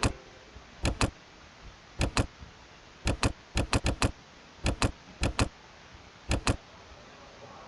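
Clicking at a computer while editing: short sharp clicks, mostly in quick pairs, coming every second or so, with a burst of four quick clicks about three and a half seconds in.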